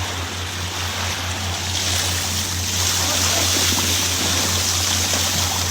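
Water rushing and splashing past an outrigger canoe as it surfs, with wind on the microphone and a steady low hum underneath. The rush of water grows louder about two seconds in.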